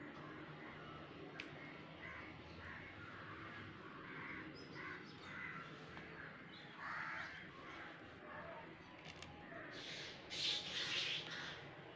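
Birds calling over and over in the background, a harsh call repeated about every half second, loudest about ten seconds in.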